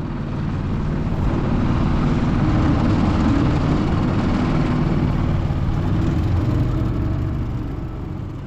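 Small boat's outboard motor throttling up and running under way, with the rush of water and wind over the hull; it eases off again near the end.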